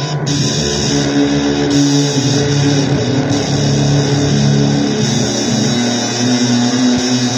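Electric guitar playing slow, noisy blues, holding low notes that change every second or so over a steady hiss.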